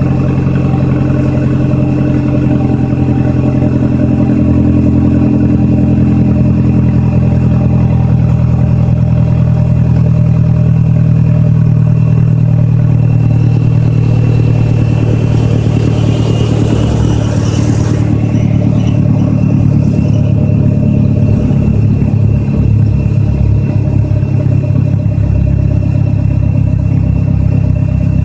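Mazdaspeed6's 2.3-litre turbocharged four-cylinder idling steadily during its cold-start warm-up, through an exhaust with the muffler and secondary catalytic converter deleted. A brief hiss swells about two thirds of the way in and cuts off suddenly.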